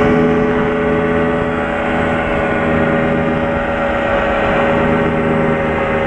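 Light aircraft's piston engine and propeller running at steady power, heard from inside the cockpit as a loud, even hum that holds one pitch.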